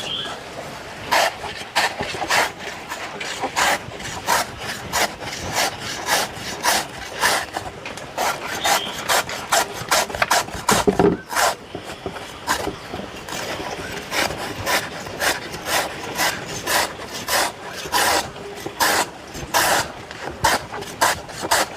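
Repeated chopping strokes on wood, a blade striking a wooden surface over and over in an uneven rhythm, roughly two strokes a second.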